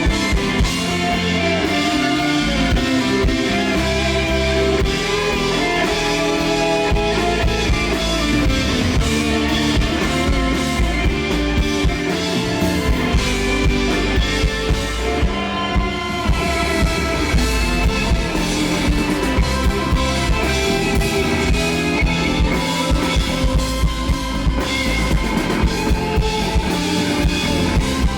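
Live rock band playing an instrumental passage with no vocals: guitars over bass and a drum kit keeping a steady beat.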